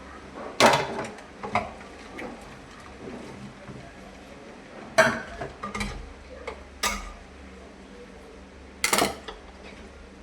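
Dishes and utensils clattering as they are handled and set down: about six sharp, ringing knocks and clinks spread out over several seconds.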